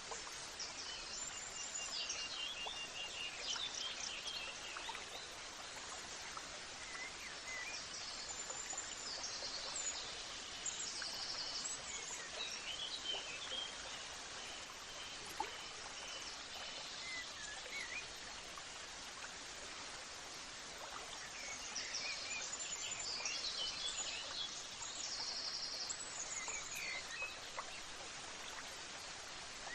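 Steady rushing of flowing water, like a stream, with small birds chirping and trilling over it in spells, busiest near the start and again about two-thirds of the way in.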